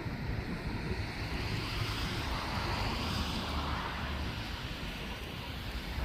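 Wind on the microphone, a low rumble under a rushing hiss that swells and fades about halfway through.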